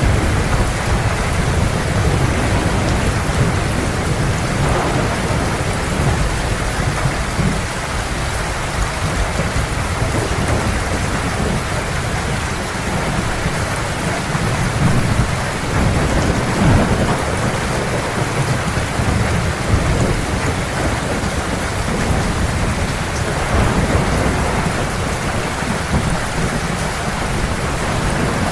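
Heavy rain falling steadily, with rolling thunder rumbling low underneath and swelling several times.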